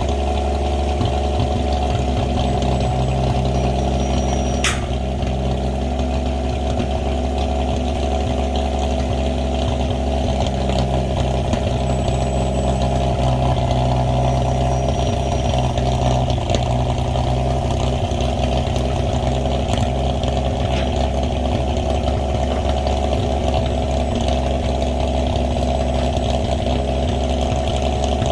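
Winch truck's engine running steadily at a constant speed, with a single sharp click about five seconds in.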